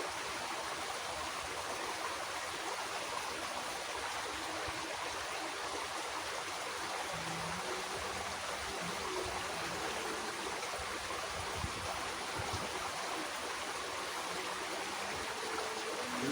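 Water running steadily in a small irrigation ditch, an even rushing flow.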